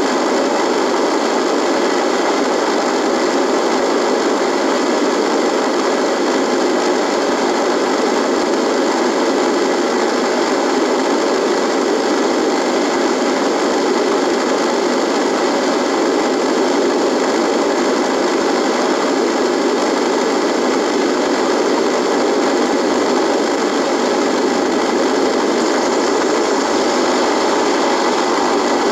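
Radio static: a steady, even buzzing hiss that does not change.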